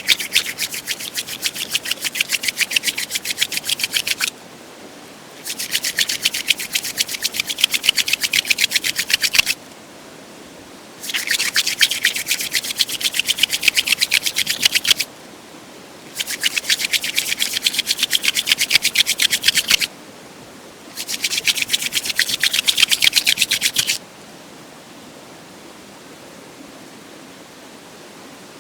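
Quick rubbing strokes, many a second, in five runs of about four seconds each with short pauses between, then a steady faint hiss.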